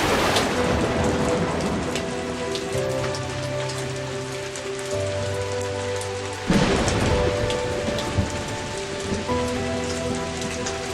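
Heavy rain pouring steadily, with held notes of background music over it. The noise swells suddenly near the start and again about two-thirds of the way through, then eases back.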